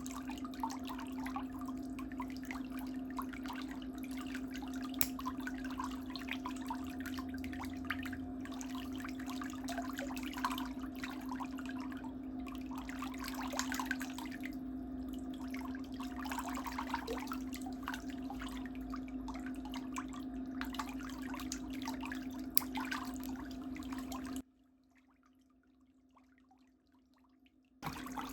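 Water trickling and dripping over a steady low hum, with scattered small clicks. The sound drops out almost completely for about three seconds near the end.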